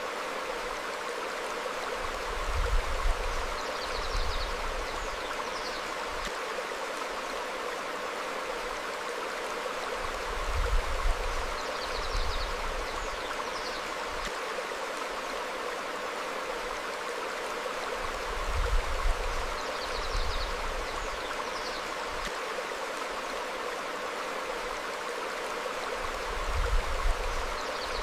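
Stream flowing over rocks: a steady rush of water, with a brief low swell about every eight seconds and a few faint, high bird chirps.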